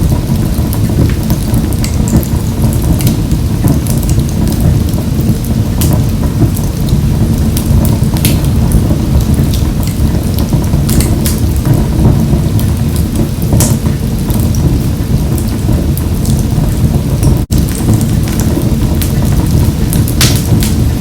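Wood fire burning in a wood-burning stove: a steady low roar of the flames with scattered sharp crackles and pops. The sound cuts out for an instant about seventeen seconds in.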